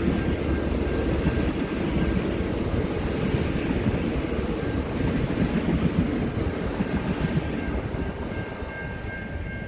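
Diesel-hauled passenger train rolling past, its wheels clattering steadily on the track, fading slightly near the end.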